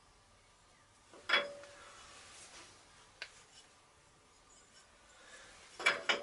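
Metal clinking on metal: a steel piece or hand tool set down or knocked on a metal surface with a short ringing note, once about a second in and then as a quick cluster of three or four clinks near the end, with a small tick in between.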